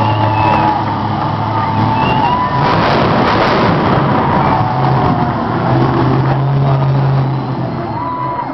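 Monster truck engine running loud, with its pitch rising and falling as it is revved, and a louder surge about three seconds in.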